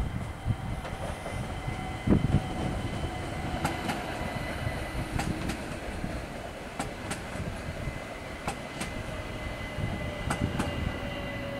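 ÖBB Bombardier Talent electric multiple unit rolling slowly past with a low rumble and a steady high whine. Its wheels click in quick pairs over rail joints, a pair every second and a half or so from a few seconds in.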